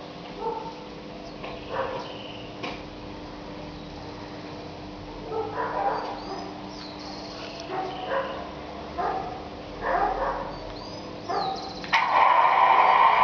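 A dog barking and yipping in short, scattered bursts over a steady low electrical hum. About twelve seconds in, a loud multi-note horn cuts in suddenly, the model locomotive's sound-decoder horn.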